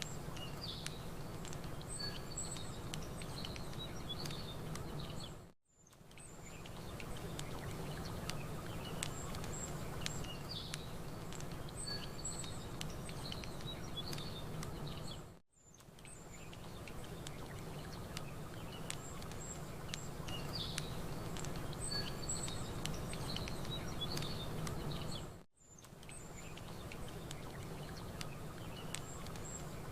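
Campfire crackling with small sharp pops over a steady low rush, while small birds chirp and tweet. The sound briefly fades to silence three times, about ten seconds apart, as the same ten-second stretch repeats.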